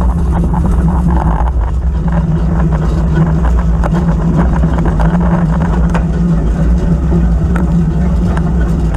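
A vehicle engine running at a steady speed, with a constant low hum and light rattling and clicking over it.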